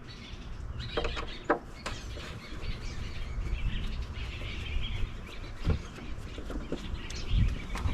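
A few scattered clicks and knocks from hand work on a door panel, with birds chirping faintly in the background.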